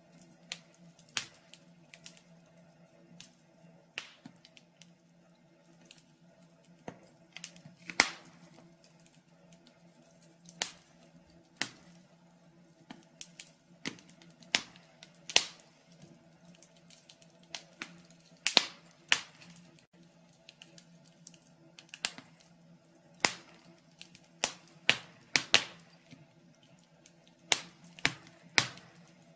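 Wood fire burning in a fireplace, crackling with irregular sharp pops, some much louder than others, over a faint steady hum.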